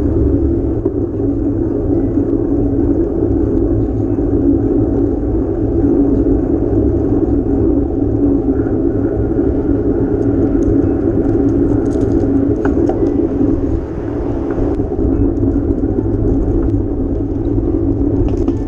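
Steady rumble of wind and road noise heard while riding a bicycle, with a few faint clicks and a brief drop in level a little past the middle.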